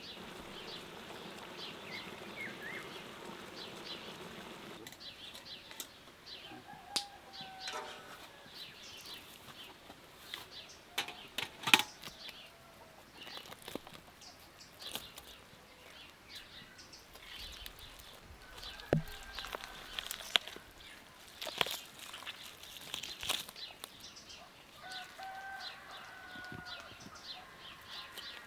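Outdoor ambience with short bird calls now and then over scattered sharp clicks and knocks.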